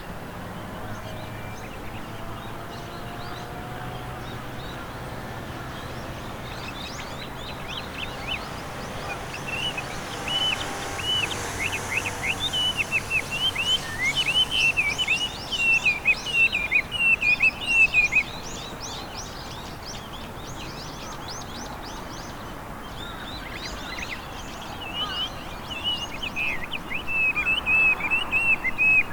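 Chinese hwamei singing: loud, varied runs of quick whistled notes that start a few seconds in, break off for several seconds midway, then start again near the end.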